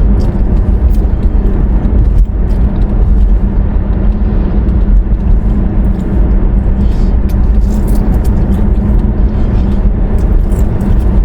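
Steady low rumble of a car heard from inside the cabin, engine and road noise with no breaks.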